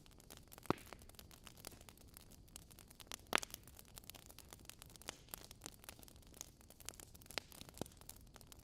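Fireplace fire crackling: a steady patter of small snaps over a low hiss, with a few louder pops, the loudest a little past three seconds in.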